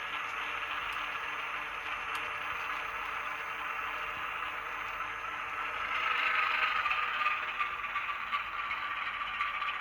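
N gauge model train running along the layout track: a steady rattle and clatter of small wheels over rail with a motor whir, growing louder with a whine about six seconds in.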